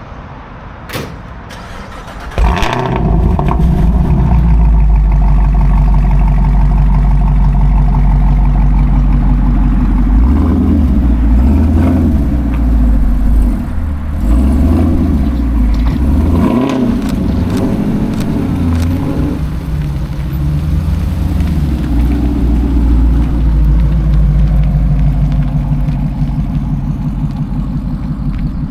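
A vehicle engine starts about two and a half seconds in and runs loudly. Its revs rise and fall several times in the middle before settling back to a steady run.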